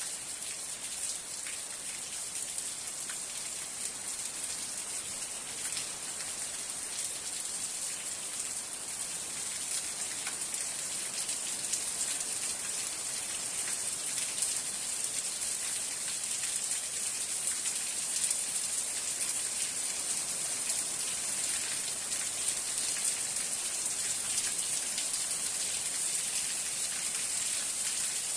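Steady rain falling: a dense hiss made of countless fine drop ticks, growing a little louder partway through.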